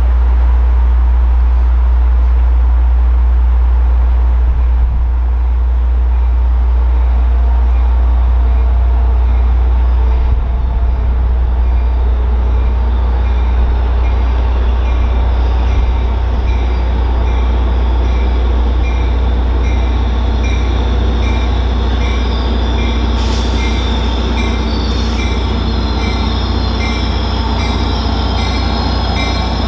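A Caltrain train running at the station with a heavy, steady low rumble. From about halfway in, a short high tone repeats evenly, about three times every two seconds. Near the end, high wheel squeal joins in.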